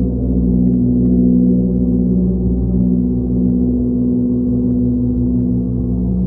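Monochord drone: many overlapping low tones and overtones sustained at an even level, with no distinct strikes.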